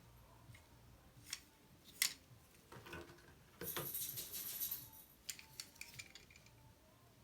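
Plastic toilet-tank parts being twisted by hand with force: a few sharp clicks, about a second of scraping and rattling near the middle, then lighter ticks.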